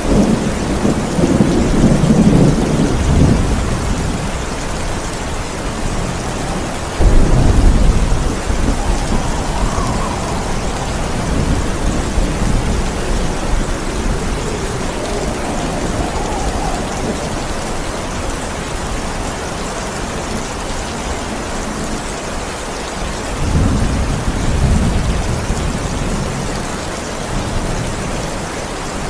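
Steady heavy rain with rolling thunder: a low rumble in the first few seconds, a sudden loud crack of thunder about seven seconds in that rumbles away, and another rumble a little before the end.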